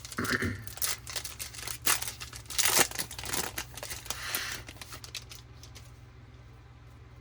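Foil wrapper of a 2020 Topps Series 1 baseball card pack being torn open and crinkled, with the loudest crackle a little under three seconds in. The crinkling stops after about five seconds.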